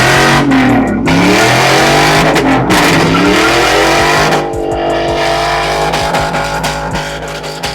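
Engine revving hard during a burnout, its pitch rising and falling again and again, over the hiss of spinning, smoking tyres. About four and a half seconds in it settles to a lower, steadier note.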